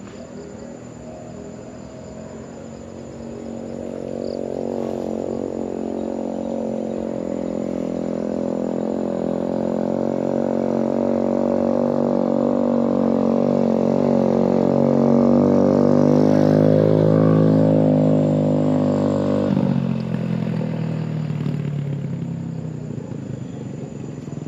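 Motorcycle engine running and growing steadily louder, loudest about fifteen to eighteen seconds in, then dropping in pitch and level about twenty seconds in.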